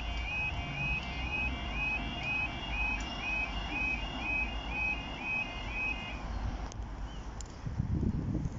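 Level crossing warning alarm sounding a repeating warbling two-tone call over low traffic rumble. The alarm cuts off about six seconds in, and a louder low rumble rises near the end.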